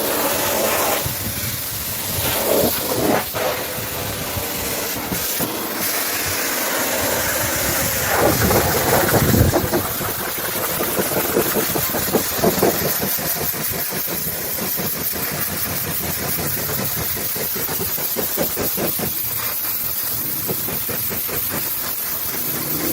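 Pressure washer running, its water jet hissing steadily, with a louder surge about eight to nine seconds in.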